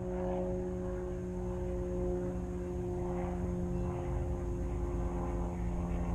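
Steady engine drone of an approaching diesel train: a pitched hum over a low rumble that slowly grows louder.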